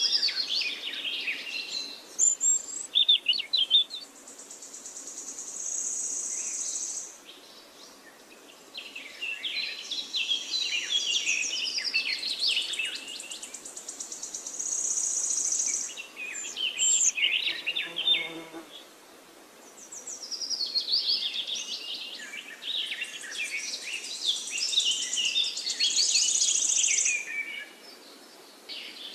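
Forest birdsong: songbirds sing repeated phrases of quick, high warbling notes a few seconds long, with short pauses between. Several phrases come with a steady high buzzing trill about two seconds long, and a brief lower call comes in about two-thirds of the way through.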